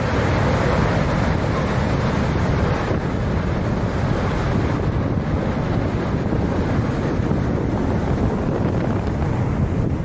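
Storm wind buffeting the microphone in a loud, steady rush of noise.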